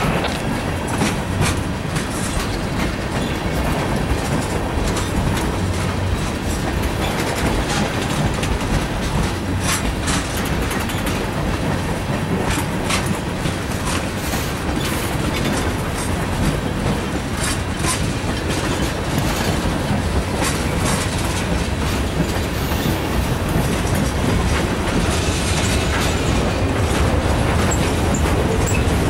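Freight train cars (tank cars, a boxcar and covered hoppers) rolling past close by. A steady rumble, with the wheels clicking and knocking over the rail joints.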